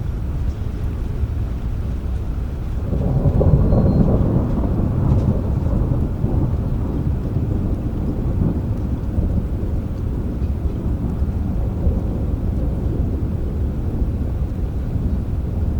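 Rolling thunder rumbling over steady rain, swelling about three seconds in and then slowly dying away.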